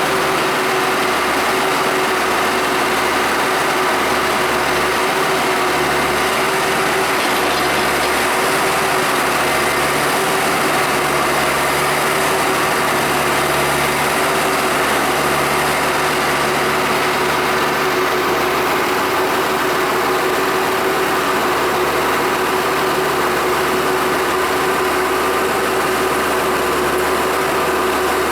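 Tractor diesel engine running steadily, with a constant mechanical whir of gears and machinery over it.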